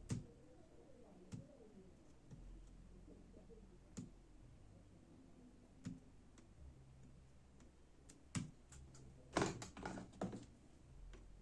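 Light, scattered clicks and taps from hands working on a laptop's keyboard deck and peeling double-sided adhesive tape, with a quick run of several taps about nine and a half seconds in.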